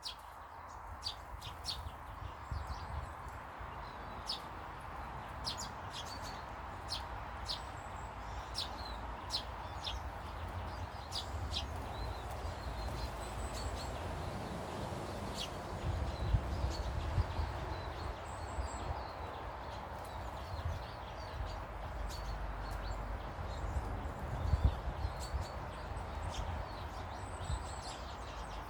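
Small garden birds chirping in short, quick calls, thickest in the first half, over a steady background rush. There are gusts of low rumble a little past the middle and again near the end.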